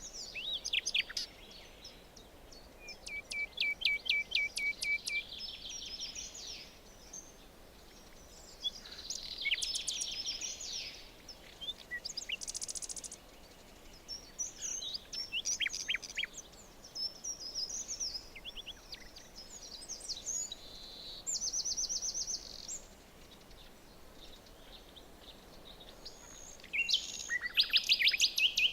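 Several songbirds singing and calling: quick runs of repeated high notes, trills and short chirps over a faint steady background hiss, with louder phrases about 4 seconds in, around 10 seconds in and near the end.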